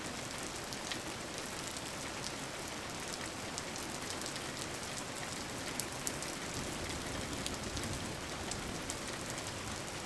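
Steady rain falling, an even wash of noise with scattered sharp drop ticks.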